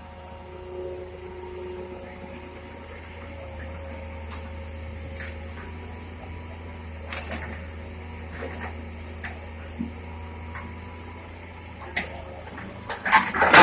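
A diesel engine running steadily at low revs, with scattered light clicks and knocks. A louder burst of knocking and clatter comes near the end.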